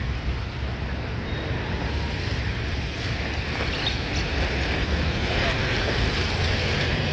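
Wind buffeting the microphone: a steady, rushing rumble strongest in the lows, with road traffic noise mixed in underneath.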